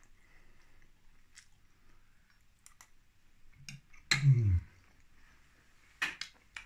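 A man chewing a mouthful of food with his mouth closed: soft, scattered wet mouth clicks. About four seconds in there is a short hum that falls in pitch.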